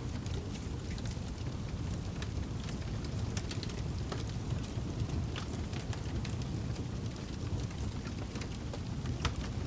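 Wood campfire burning, a steady low rushing sound with frequent small crackles and sharp pops throughout, one of the louder pops near the end.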